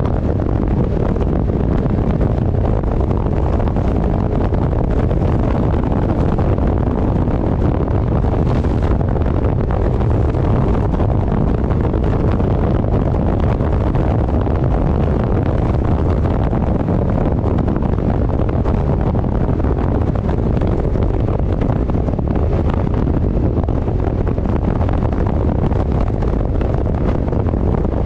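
Steady wind rush buffeting the microphone of a motorcycle riding at speed, with engine and road noise underneath.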